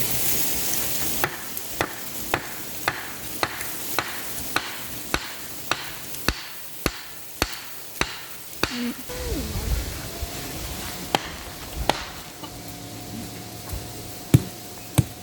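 Wood being chopped: a run of about fourteen even, sharp strikes at roughly two a second, followed by a few scattered strikes near the end.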